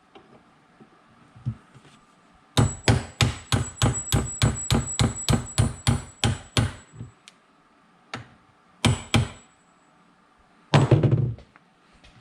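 A hammer striking metal: a quick run of about sixteen blows, three or four a second, with a high metallic ring, then a few separate heavier blows.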